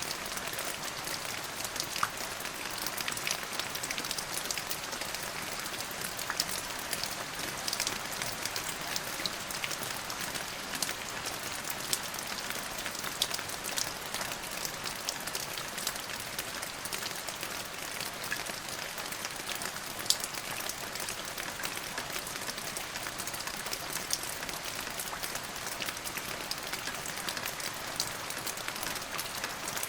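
Steady rain falling, with many separate, sharp drop hits over an even hiss; no thunder.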